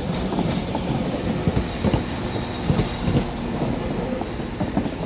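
Passenger train wheels clattering irregularly over station pointwork, with a faint high wheel squeal coming in about two seconds in.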